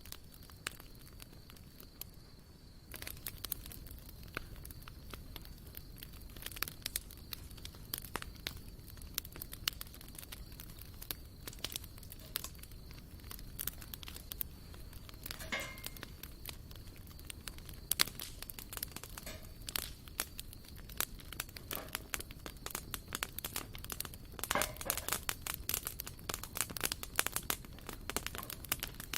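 Wood campfire crackling, with irregular sharp snaps and pops that grow much more frequent about three seconds in.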